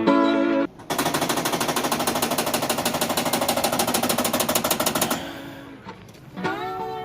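Toshiba e-Studio 720 photocopier giving a loud, fast, even grinding clatter for about four seconds, a fault noise from inside the machine. It fades out and guitar music comes back near the end.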